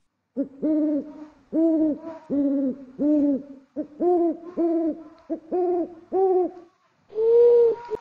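Owl hooting: a quick series of about a dozen short hoots, roughly two a second, then one longer hoot near the end.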